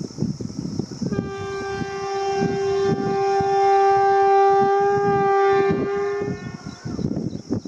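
Electric locomotive's horn sounding one long, steady blast of about five seconds, starting a second in. Low rumbling noise from the train and wind runs underneath and on either side of it.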